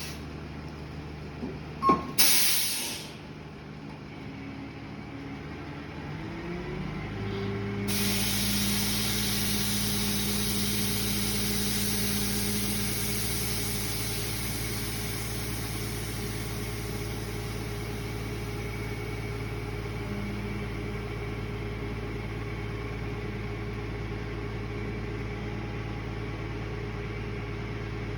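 Tow truck: a click and a short burst of hissing air about two seconds in, then its engine revs up and settles into a steady, raised run with a hiss over it.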